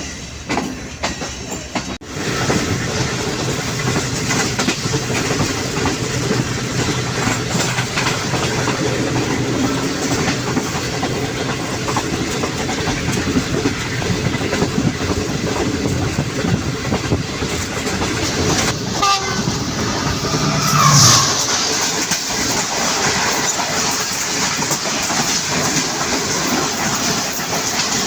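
Passenger train running on the track, with a steady rumble and wheel clatter from the rails. About two-thirds of the way through, a brief horn blast sounds.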